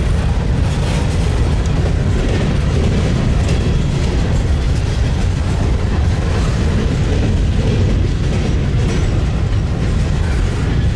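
Freight train passing close by: a steady, loud rumble of locomotives and cars, with the wheels clicking over the rail.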